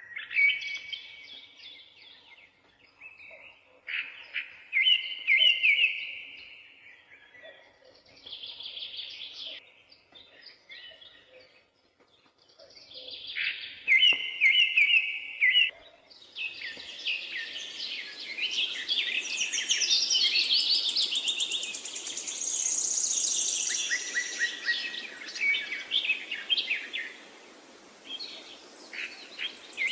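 Several wild birds singing and chirping in short, repeated phrases with brief pauses between them. About halfway through, the calls thicken into a dense, continuous chorus over a steady background hiss, with higher-pitched trills joining in.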